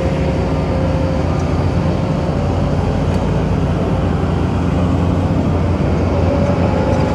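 Bulldozer's diesel engine running steadily with a low drone, with a faint steady whine held above it.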